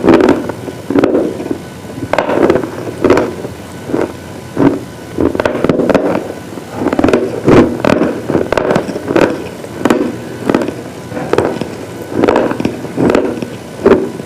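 Brittle slate pieces being crunched over and over, a crisp crunch with crackly snaps about every half second to a second.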